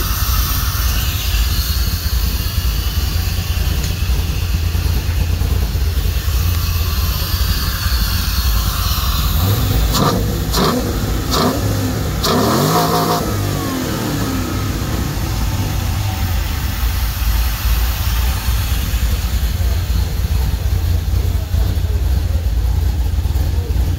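Cammed GM LS V8 idling, blipped a few times by hand at the throttle body about ten to thirteen seconds in, the revs then falling back to idle.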